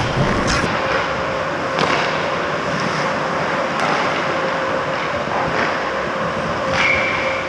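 Ice hockey rink sound: a steady noisy hiss with a constant hum, broken by a few short scrapes and knocks from skates and sticks on the ice.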